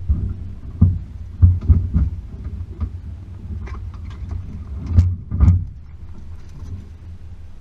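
Range Rover P38's 4.0 V8 engine running with a steady low hum while driving a rough off-road track, broken by several heavy thumps and knocks, the loudest about a second and a half in and twice around five seconds in.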